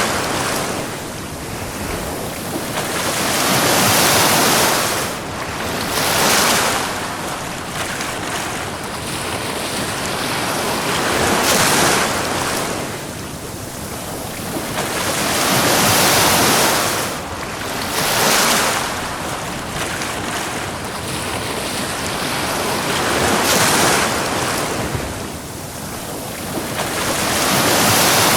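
Ocean waves breaking and washing up a beach, a steady rushing hiss that swells and falls back every four to six seconds.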